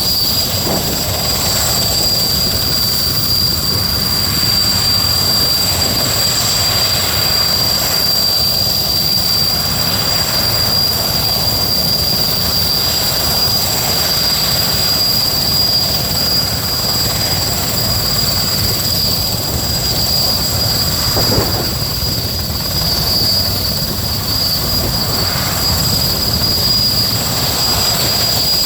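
Sikorsky S-64 Skycrane helicopter running with its twin turboshaft engines: a steady, loud, high-pitched turbine whine over a continuous rumble of engine and rotor noise.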